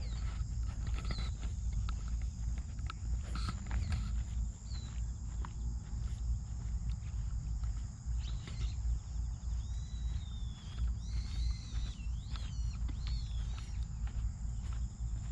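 Outdoor ambience: a steady low rumble of wind on the microphone, with scattered footstep-like clicks. From about halfway through, a bird calls in short chirps that rise and fall in pitch.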